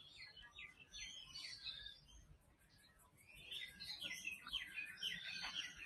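Birds chirping faintly: a run of short repeated calls in the first two seconds, a brief lull, then a busier run of chirps from a little past the middle.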